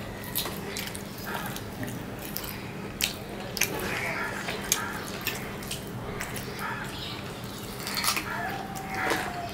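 Eating sounds: wet chewing, lip smacking and mouth clicks as two people eat rice and curry with their hands, over a faint steady hum.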